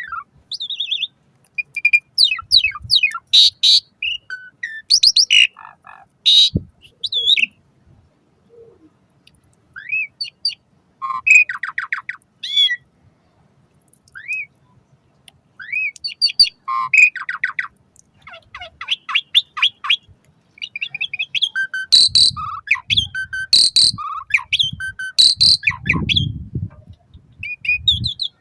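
Asian pied starling (jalak suren) singing a long, varied song of short whistled glides, chirps and fast rattling runs of notes, in bursts with short gaps. About three quarters of the way through comes a run of loud, sharp, harsh notes.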